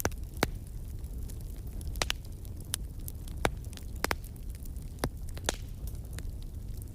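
Wood fire burning in a fireplace: a steady low rumble with sharp, irregular crackles and pops, about a dozen of them.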